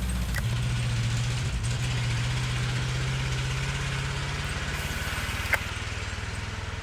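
Truck engine running steadily at low revs, with a single sharp click about five and a half seconds in.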